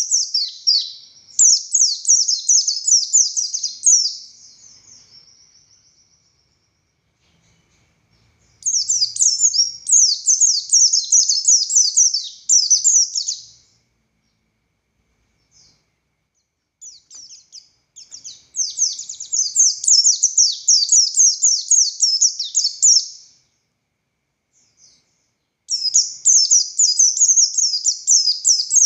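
Pleci buxtoni white-eye singing in long, fast, high-pitched twittering phrases of about four to five seconds each, separated by pauses of a second or more.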